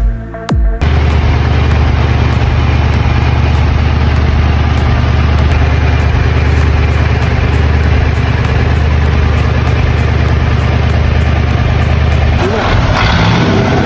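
Engine idling steadily with a deep, even hum. About twelve seconds in, the steady low hum drops away and a rougher, higher sound takes over.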